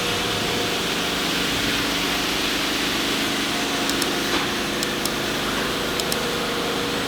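A steady mechanical hum and hiss with a few faint clicks about four to six seconds in.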